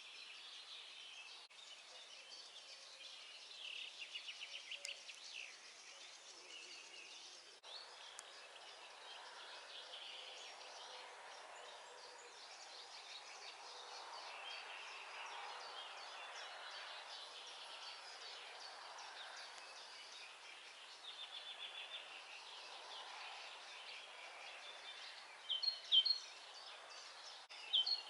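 Dawn chorus: many songbirds chirping and trilling at once, with a louder rapid trill about four seconds in and again past twenty seconds. Near the end a closer bird gives a few loud, sharp repeated notes.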